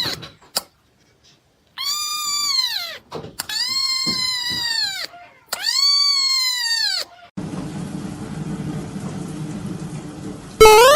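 A cat giving three long, drawn-out meows, each rising and then falling in pitch. Then about three seconds of steady hiss with a low hum.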